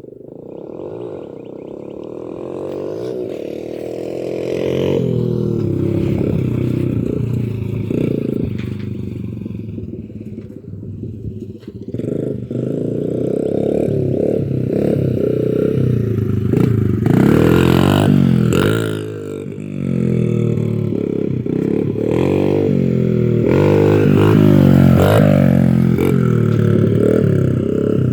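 Dirt bike engine running and being revved, its pitch repeatedly rising and falling as it is ridden, with a short drop in level about two-thirds of the way through.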